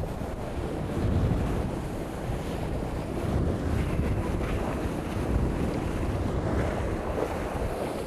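Wind buffeting the microphone and water rushing past a sailing catamaran's hulls as it sails fast in a heavy gust of wind.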